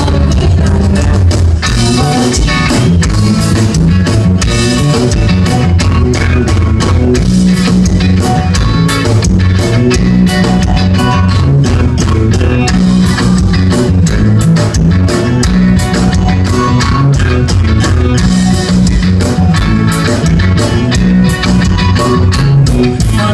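Live band music played loud: electric guitar, bass and drum kit keeping a steady beat, with little or no singing.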